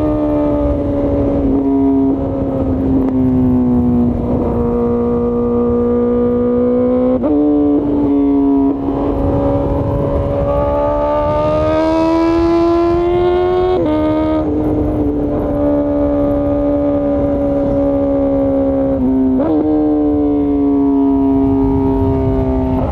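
Honda CBR1000RR-R Fireblade's inline-four engine running at steady high revs under way. Its pitch holds for several seconds at a time and rises gradually in the middle, with several sudden short breaks and shifts in pitch.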